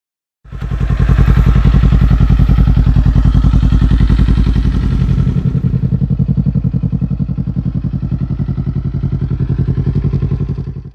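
Kawasaki Z400 parallel-twin engine running at a steady speed with an even, deep pulsing exhaust note. It drops a little in loudness about halfway through and cuts off suddenly at the end.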